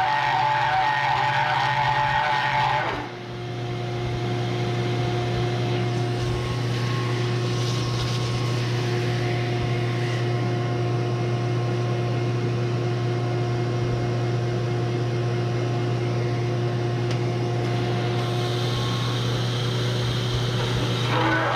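Bridgeport milling machine running with a hole saw cutting into a steel tube. About three seconds in the cutting noise stops and the machine runs on with a steady hum; the cutting noise returns near the end.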